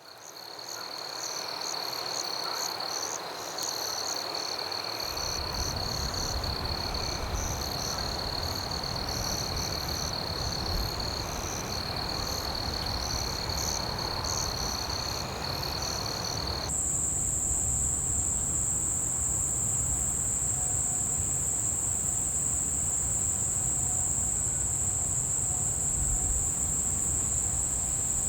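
Night chorus of frogs and insects: pulsing high-pitched calls, with a low rumble coming in about five seconds in. About two-thirds of the way through it changes abruptly to one steady, loud, high cricket trill.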